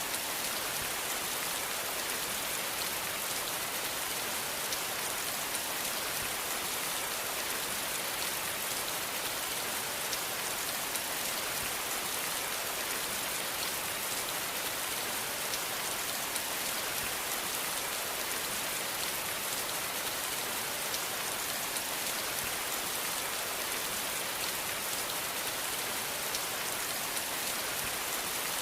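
Steady rain falling on a surface: an even hiss with many fine drop ticks, unchanging throughout.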